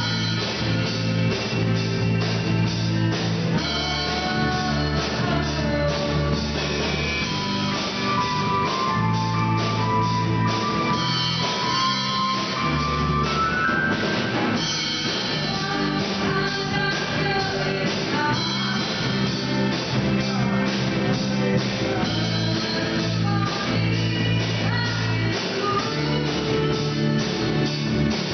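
Band playing a pop-rock song on drum kit, guitar and bass, with a melody line rising and falling over the steady beat.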